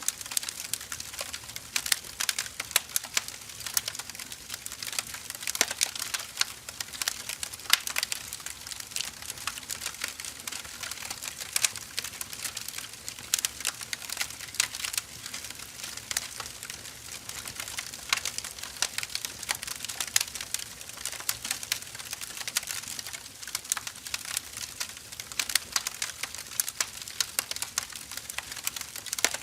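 Firewood burning, crackling with constant irregular snaps and sharper pops scattered throughout.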